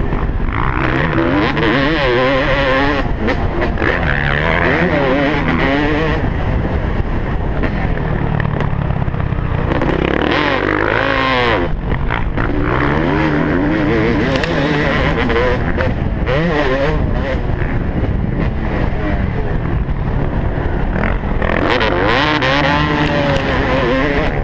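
Motocross dirt bike engine, heard from an onboard camera, revving up and down repeatedly as the bike is ridden hard around the track.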